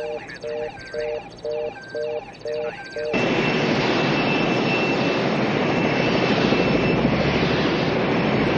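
A short electronic beep repeating about twice a second, then about three seconds in a loud, steady aircraft engine noise cuts in abruptly, with a thin high whine over it for a few seconds.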